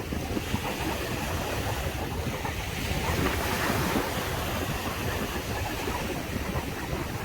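Waves breaking and washing up on a sandy beach in a steady surf wash, swelling a little a few seconds in, with wind rumbling on the microphone.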